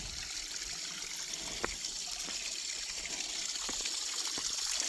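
Small waterfall and stream running with a steady watery hiss that swells slightly toward the end, with a few faint ticks over it.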